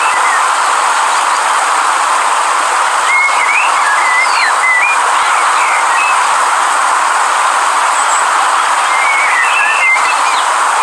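River water rushing steadily, with small birds chirping over it: a few chirps at the start, a run of them from about three to five seconds in, and more near the end.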